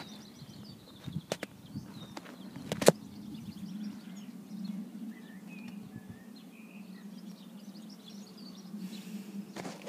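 Small birds chirping over a low steady hum, with a few sharp clicks in the first three seconds.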